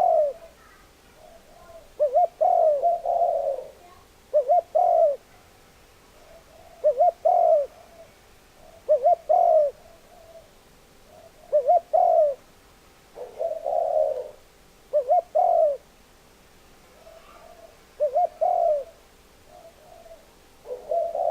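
Spotted dove cooing: a series of short, repeated coo phrases, one about every two seconds.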